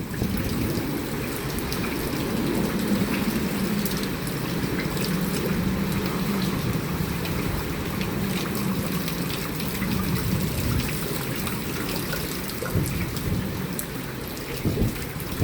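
Steady heavy hurricane rain and wind, with a low rumble underneath and many small drop clicks.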